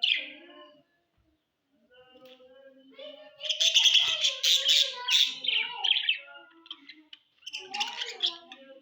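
Budgerigars chirping and chattering. A sharp chirp comes first, then a dense, loud burst of chatter a few seconds in and another burst near the end.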